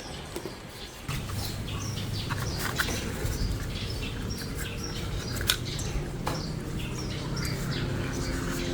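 Small birds chirping repeatedly in short high calls, over a low steady hum.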